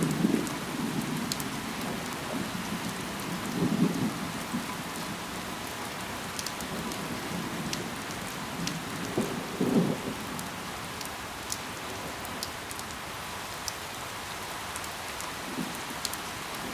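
Steady rain falling, with fine individual drip ticks throughout. Twice, about 4 and 10 seconds in, a brief low rumble of thunder swells up and fades under the rain.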